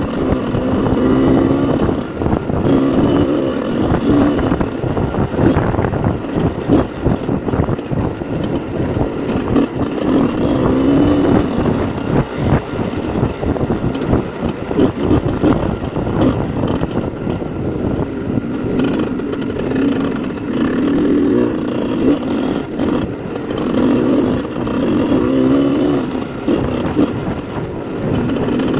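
Motorcycle engine running under varying throttle, its pitch rising and falling repeatedly as it revs up and eases off.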